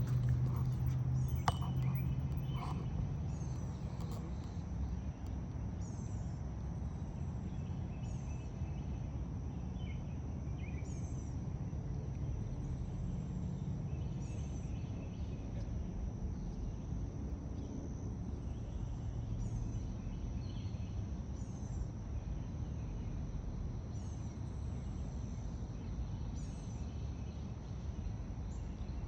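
Outdoor park ambience: a steady high insect trill, with a short, high, falling chirp repeating every second or two, over a constant low rumble.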